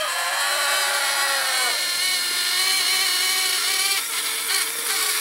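Blade Inductrix Switch Air's tiny ducted propeller motors spinning at low throttle: a steady high-pitched whine that wavers a little in pitch.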